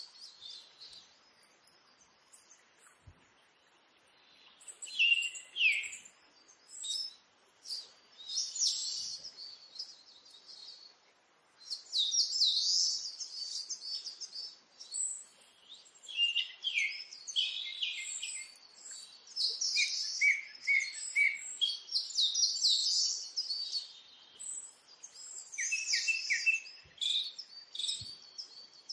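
Birds chirping and singing: many short, high, quickly gliding calls in clusters with brief pauses, starting a few seconds in.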